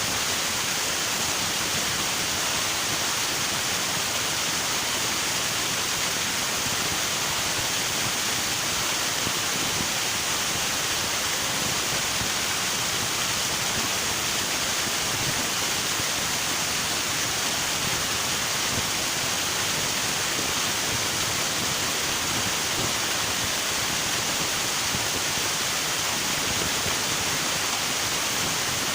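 River water rushing steadily, an even, unbroken hiss strongest in the high range.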